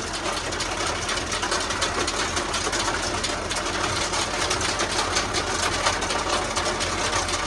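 Farm tractor's engine running steadily, with a fast clattering rattle over a low hum.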